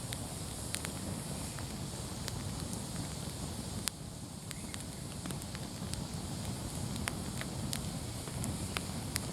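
Bonfire crackling: irregular sharp pops and snaps over a steady low rumble of burning, with one stronger pop about four seconds in.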